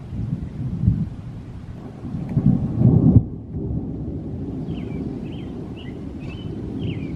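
Thunder rumbling, swelling to its loudest about three seconds in and then cutting off sharply, leaving a lower steady rumble. Birds chirp briefly in the second half.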